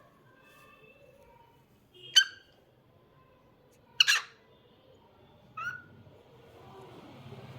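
Cockatiel giving three short, loud calls about a second and a half to two seconds apart, after a few soft whistled notes.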